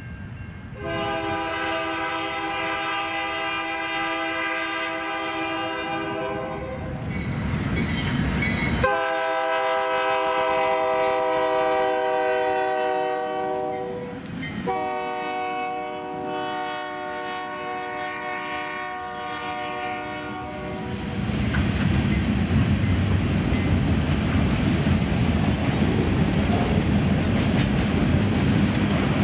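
Freight locomotive air horn sounding three long blasts, the pitch dropping slightly as the lead unit, a GE C44-9W, goes by. About two-thirds of the way in the horn stops and the train's cars roll past, their wheels rumbling and clattering on the rails, louder than the horn.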